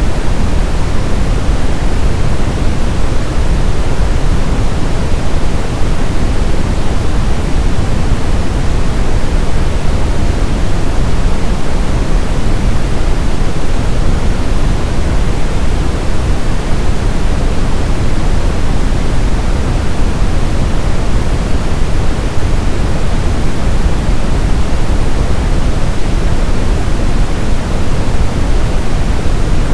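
Brown noise: a steady, unchanging synthetic hiss weighted heavily toward the low end, a deep rumble with little treble.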